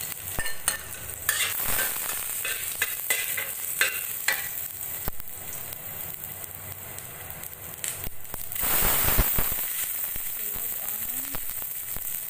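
Garlic sizzling in hot olive oil in a stainless-steel wok, with a metal spatula scraping and clicking against the pan as it is stirred. About eight and a half seconds in, the sizzle swells louder for about a second as the chopped onion goes into the oil.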